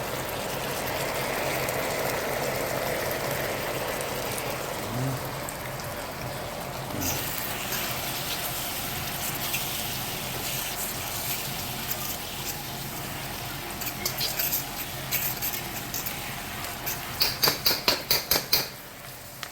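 Soy sauce sizzling and bubbling in a hot frying pan with a little oil. Near the end comes a quick run of about seven sharp taps.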